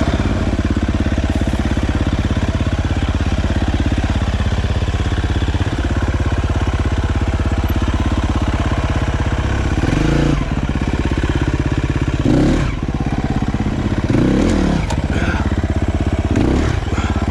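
Dirt bike engine running at a low, steady pace, with the revs rising briefly four times in the second half.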